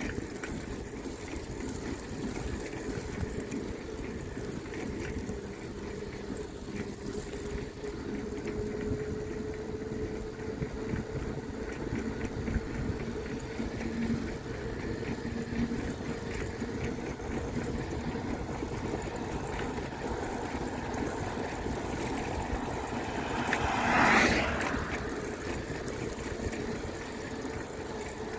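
Steady wind and road noise while riding a bicycle, with a faint steady hum underneath. Near the end a motor vehicle passes, swelling and fading within about a second and a half.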